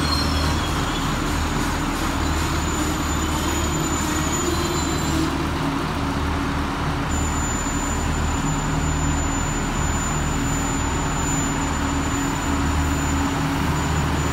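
DART electric multiple-unit train running along the station platform: a steady rumble with a pulsing low hum and a thin high whine that drops out briefly about five seconds in.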